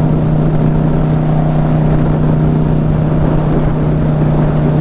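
Indian Scout Bobber motorcycle's V-twin engine running at a steady cruising speed, with wind and road noise over it.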